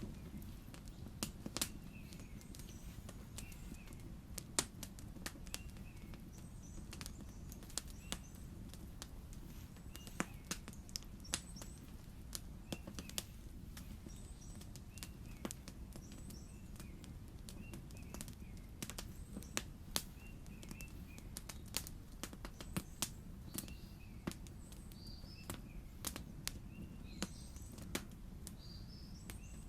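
Campfire crackling with irregular sharp pops, a couple each second. Small birds chirp repeatedly in the background.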